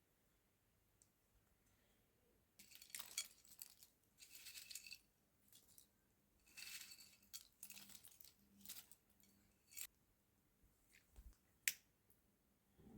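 Faint, scattered handling noises: light clinks, scrapes and rustles coming in short spurts, with one sharp click near the end.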